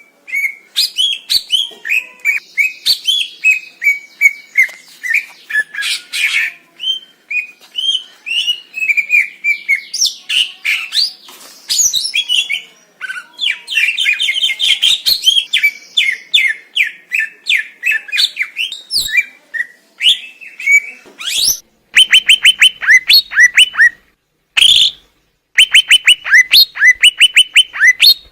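Green leafbird (cucak ijo) singing: a fast, varied stream of chirps, slurred whistles and trills, turning in the last third to rapid runs of evenly repeated notes with a few short breaks.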